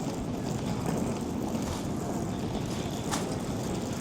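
Steady low rumble of city street ambience, with one sharp click about three seconds in.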